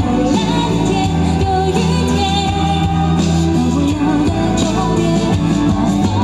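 Live pop song played by a band over a PA, with a singing voice carrying the melody over steady bass and drums.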